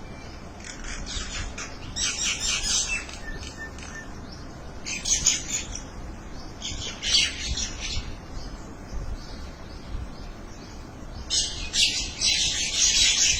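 A flock of birds calling together in dense bursts of chatter, each lasting about a second, five times, the last and longest starting near the end.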